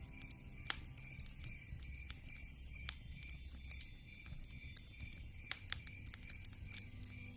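Campfire crackling, with irregular sharp pops over a low rumble. A faint, evenly pulsed high chirp repeats about three times a second throughout.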